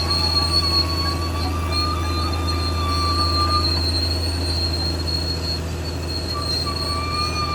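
Caterpillar D6R XL crawler bulldozer running, its diesel engine a steady low drone under high, sustained metallic squealing from the steel track undercarriage. The lowest squeal drops out about halfway through and comes back near the end.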